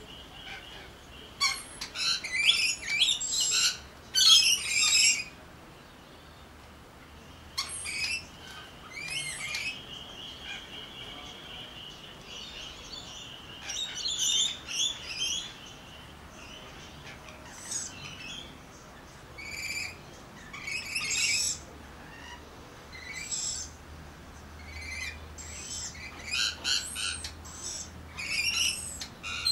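Birds calling in short clusters of high squawks and chirps, with quieter gaps between the clusters.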